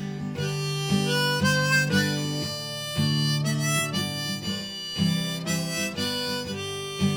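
Harmonica playing a melody over a strummed acoustic guitar, chords struck about once a second, in an instrumental break of a slow country-blues song.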